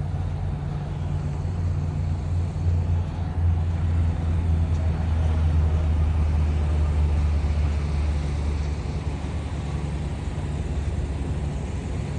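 Semi-truck engine running with a steady low drone under an even haze of road noise, a little louder in the middle.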